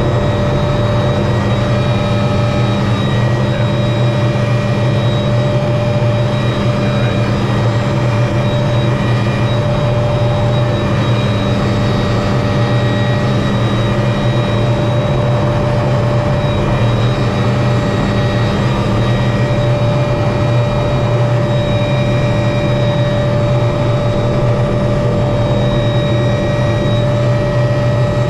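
Helicopter turbine engine and rotors running steadily and loud, with a constant whine over the rush of noise, heard close up on a helmet-mounted camera.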